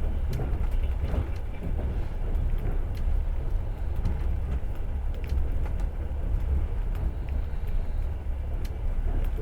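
Passenger train running along the line, heard inside the carriage: a steady low rumble of wheels on rails with a few faint clicks.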